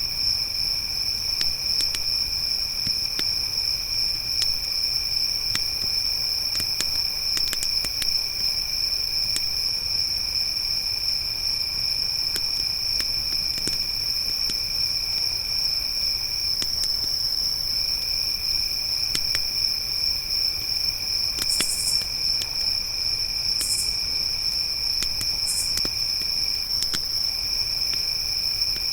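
Crickets chirping steadily in two pitches, a high one and a lower one that breaks off briefly twice, over the scattered pops and crackles of a campfire. A few short higher insect buzzes come in the second half.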